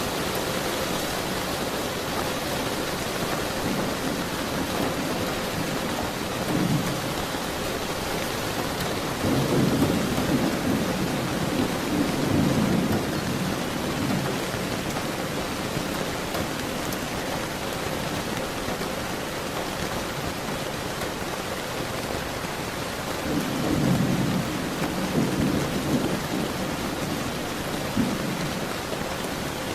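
Steady rain falling, with thunder rumbling low several times over it: a short roll, then a longer one lasting about five seconds, another about two-thirds of the way through, and a brief one near the end.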